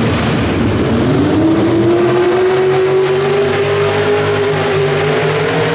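Pro Street 2WD pulling truck's engine at full throttle: it rises in pitch over the first two seconds, then holds a high, steady note.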